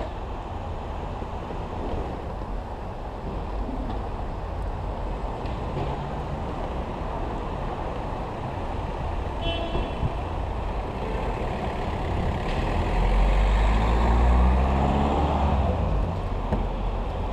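Honda NC700X parallel-twin with a Danmoto XG-1 exhaust, ridden with a low rumble and road and wind noise. About halfway there is a brief high beep. Later the engine pulls harder, its pitch rising in steps through gear changes.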